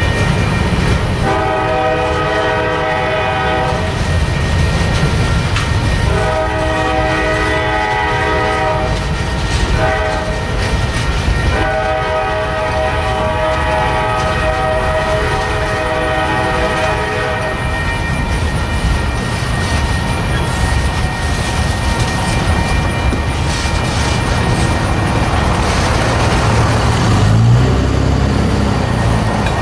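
Freight cars of a CSX manifest train rolling past on the rails with steady wheel rumble and clatter. The train's horn sounds the long, long, short, long grade-crossing pattern from up ahead. The last long blast ends about 18 seconds in, and the cars keep rolling after it.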